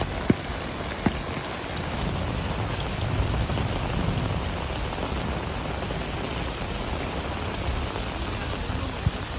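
Heavy rain pouring steadily on hard surfaces, swelling slightly a few seconds in, with a few sharp taps near the start and one near the end.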